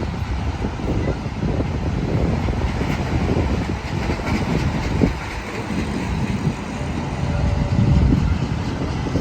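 Union Pacific train running along the track, a loud steady low rumble that swells and eases a little.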